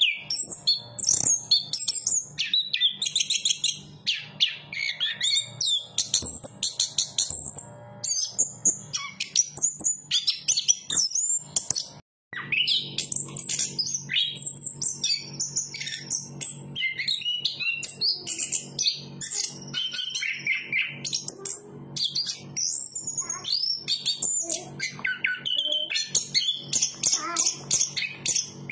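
Chestnut-capped thrush singing a long, rapid, varied song of high whistles, chirps and trills, with a steady low hum underneath. The sound drops out for a moment about twelve seconds in.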